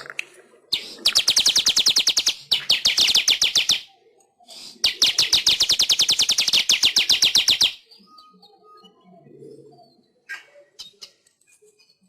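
Manyar (weaver bird) song: three bursts of fast, buzzy pulsed chatter, the last and longest lasting about three seconds. Only faint short calls follow in the second half.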